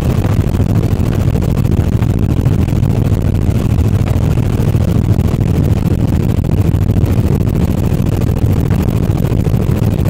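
Helicopter running steadily, a loud, even low rumble that doesn't change.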